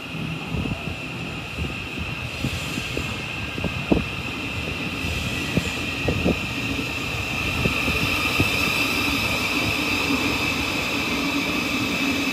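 Great Northern Class 717 electric train approaching through the tunnel and pulling into the underground platform. A steady rumble grows louder, with a high steady whine and a number of sharp clanks from the wheels on the track over the first eight seconds or so.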